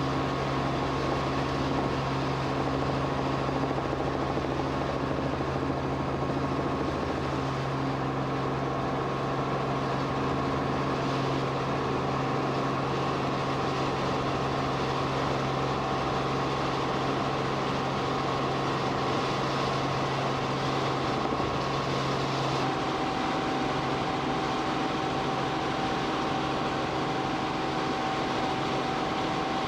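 Steady drone of an aircraft engine heard from on board, an even rushing noise with a few held tones that shift slightly in pitch about three quarters of the way through.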